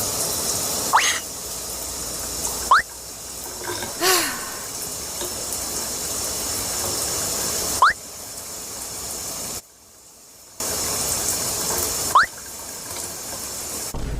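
Shower water running steadily, with four short, sharp rising squeaks about a second in, near three seconds, near eight seconds and near twelve seconds, and one lower, downward-bending squeal about four seconds in.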